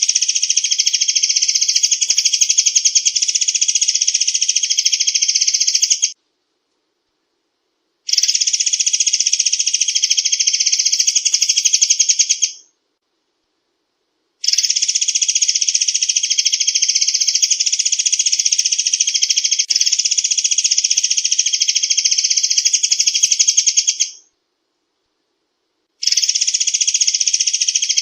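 Recorded murai air song played as a bird lure: a loud, very rapid high trill of repeated notes, delivered in long bouts broken by three silences of about two seconds each.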